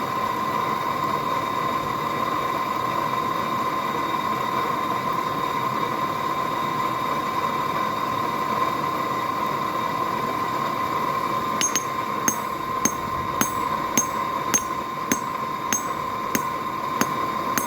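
Steady hum of a forge blower with a constant whine. About two-thirds of the way in, a hammer starts striking mild steel on the anvil in an even rhythm, a little under two ringing blows a second.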